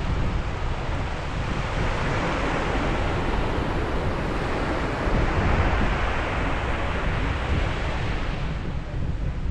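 Ocean surf: a wave breaking and washing in, building through the middle and easing off near the end, with wind buffeting the microphone underneath.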